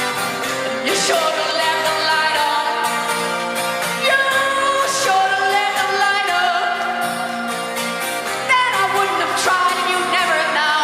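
Live rock song: a woman's voice sings long held notes that slide into pitch, three phrases starting about one, four and eight and a half seconds in, over strummed guitar and band accompaniment.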